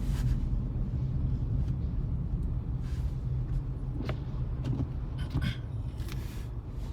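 Steady low rumble of a car moving slowly through snow, heard from inside the cabin, with a few short clicks and a brief swish in the second half.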